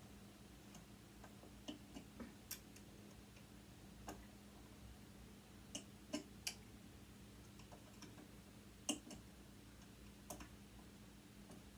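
Faint, scattered clicks and light taps of hand tools on metal sewing-machine parts, about a dozen in all with the sharpest about nine seconds in, over a faint steady hum.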